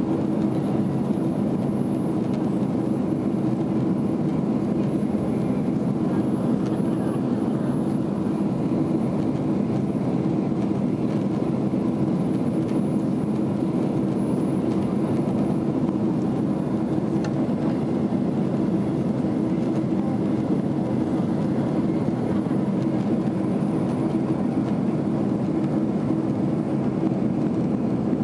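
Steady cabin noise of a Boeing 767 airliner climbing out after takeoff: a constant drone of engines and airflow, heaviest in the low-mid range, with a faint steady hum above it.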